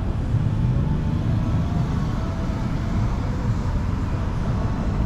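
Steady low rumble of city street noise heard from a moving bicycle: traffic and riding noise on the microphone.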